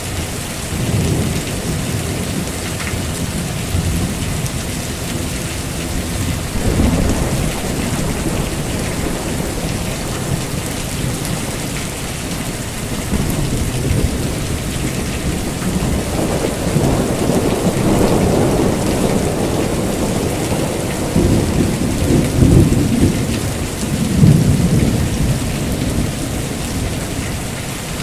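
Heavy rain falling steadily, with thunder rumbling in several rolling waves over it, the loudest near the end.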